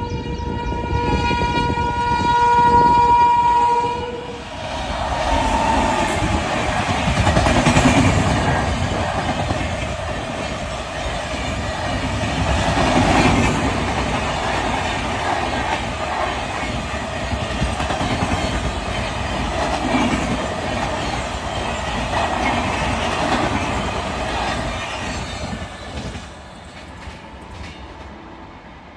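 A WAG-9 electric locomotive's horn sounds one long, steady blast that ends about four seconds in. The passenger coaches then run past close by with a loud rushing rumble and wheel clatter, which swells and dips as they go. Near the end it fades as the train moves away.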